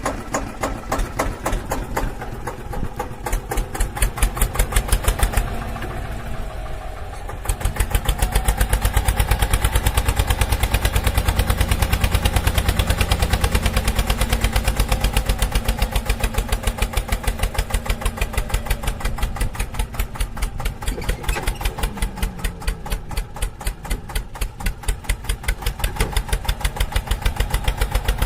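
Diesel tractor engine running with a steady rapid thumping beat; it gets louder and heavier about seven seconds in, as if working hard under load, then eases back after about fourteen seconds.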